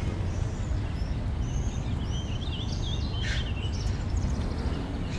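Birds chirping several times over a steady low rumble of outdoor background noise.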